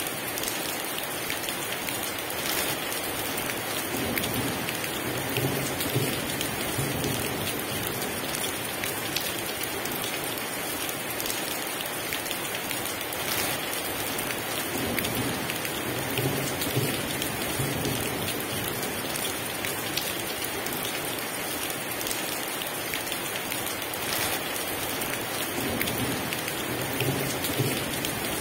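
Heavy rain falling steadily in an even hiss, with low rumbles of thunder swelling up three times.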